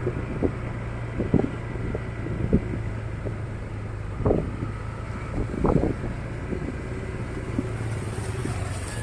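Motorcycle engine running at a steady pace, with irregular thuds and knocks breaking through every second or two.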